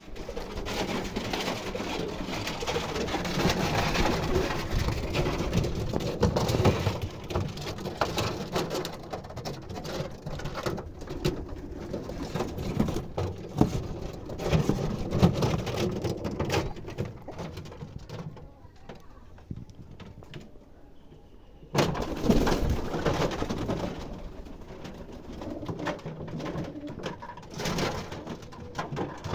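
Pigeons calling, with a dense run of sound and clicks. It goes quieter for a few seconds about two-thirds through, then starts again suddenly.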